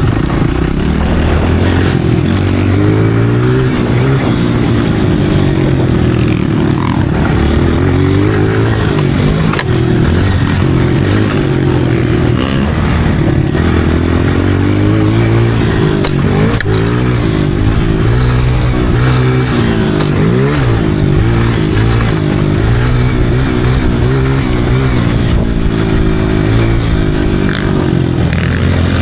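Motocross dirt bike engine being ridden hard, its pitch rising and falling continually as it revs up and drops back, with a few sharp knocks along the way.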